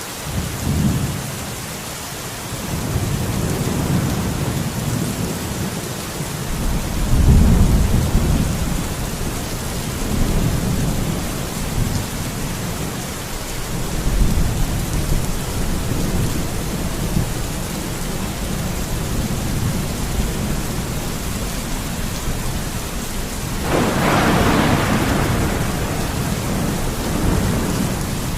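Steady rain with rolling thunder: low rumbles swell and fade several times, the strongest about seven seconds in. About twenty-four seconds in comes a sharper, brighter thunderclap that rumbles on for a few seconds.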